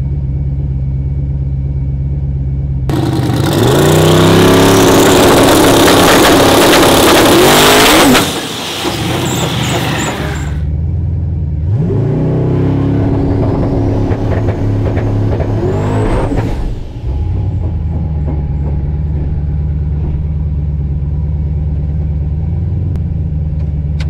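Turbocharged LS V8 truck engine idling with a lumpy beat, then revved hard for about five seconds, very loud, with hiss. It drops back, revs up again with a rising turbo whistle, and settles back to idle.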